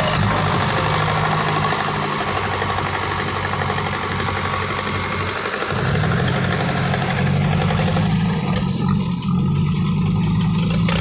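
Dump truck engine running steadily, its note getting louder about six seconds in.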